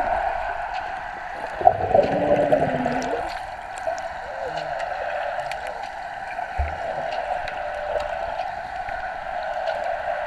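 Wave pool water rushing and gurgling steadily, a little louder for a moment about two seconds in.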